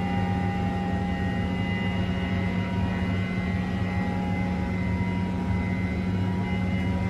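An engine running steadily at high speed: a constant low drone with a high, steady whine over it.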